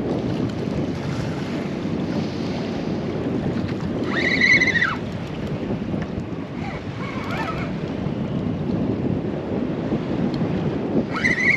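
Steady wind buffeting the microphone over water slapping against a small boat's hull. About four seconds in, a brief high tone rises and falls, with a fainter one a few seconds later.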